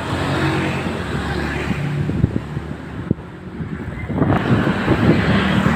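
Road traffic, with engines running steadily, and wind buffeting the microphone of a moving bicycle rider; a couple of sharp clicks come around two and three seconds in, and the noise swells again after about four seconds.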